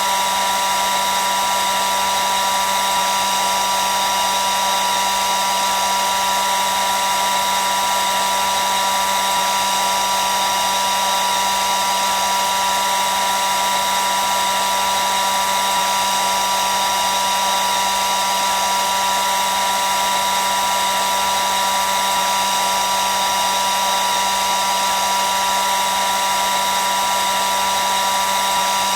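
Hair dryer running steadily: a constant rush of air with an unchanging motor whine.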